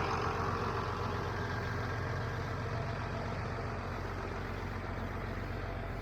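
The diesel engine of a 1976 International Harvester 886 tractor running steadily, easing slightly in level over the few seconds.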